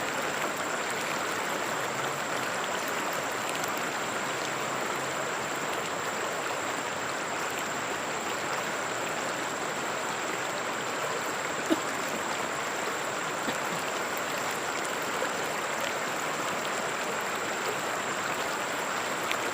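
River water flowing steadily over stones, an even rushing and gurgling, with one sharp click about two-thirds of the way through.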